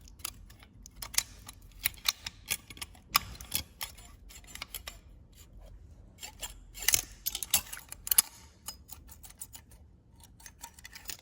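Metal hand tools and engine parts clicking and clinking irregularly during reassembly of a dirt bike's cylinder head.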